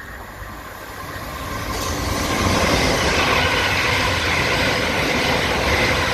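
Electric multiple-unit passenger train running into the station, growing louder over the first two seconds or so and then holding steady, with a steady high whine above the rumble of the wheels.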